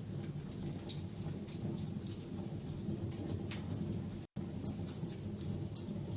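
Wood fire burning, with a steady low rush and scattered sharp crackles and pops. The sound cuts out completely for a split second about four seconds in.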